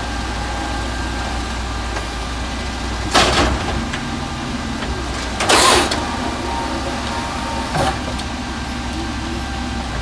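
Mack automated side loader garbage truck's diesel engine running steadily, broken by three short bursts of noise about three, five and a half and eight seconds in, the middle one the longest and loudest.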